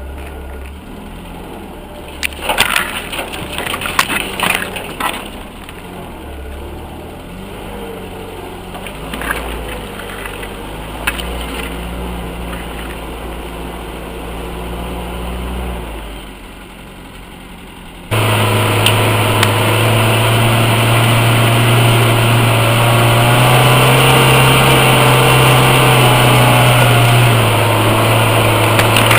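UAZ off-road vehicle's engine running at low revs, with a cluster of sharp cracks and knocks about two to five seconds in. About eighteen seconds in it turns abruptly much louder and runs hard at high revs, its pitch stepping up and down a couple of times.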